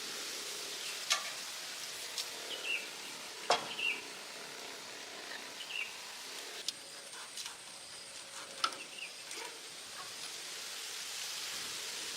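Scattered light clicks and taps of small metal parts and tools being handled during a carburettor swap, over a steady background hiss. A bird gives a short falling chirp a few times in the first half.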